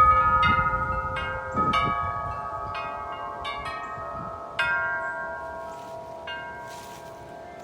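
Wind chimes struck over and over by gusty wind, their ringing tones overlapping. Low gust noise sits under the strikes for the first couple of seconds, then the strikes thin out and the ringing slowly dies down.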